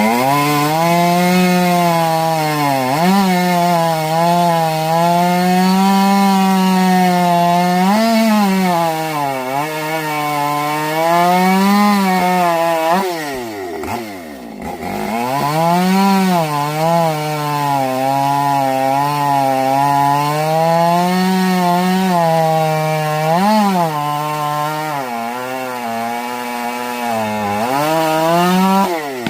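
Ported Husqvarna 550 XP two-stroke chainsaw cutting wood at high revs, its pitch sagging and recovering as the chain loads in the cut. About halfway it drops off to a low pitch and then revs back up into the cut, and it drops again near the end.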